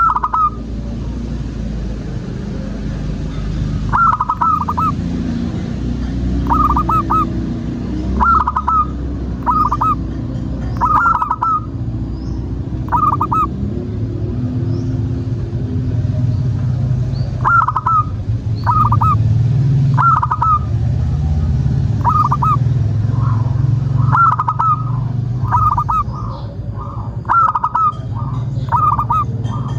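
Zebra dove cooing: short groups of quick staccato coo notes, repeated every second or two, over a steady low rumble.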